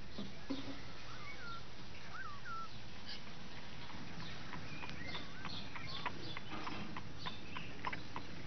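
A few short chirps from small birds, mostly in the first three seconds, over a faint steady hiss. Light clicks and scratches run through the rest as the cat paws at the slats and latch of a wooden puzzle box.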